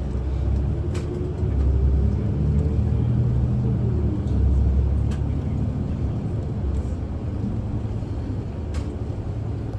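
Inside a city bus: the diesel engine and road noise make a low rumble, and the engine note climbs over the first few seconds as the bus gathers speed, then settles into a steady run. A few faint clicks or rattles come through it.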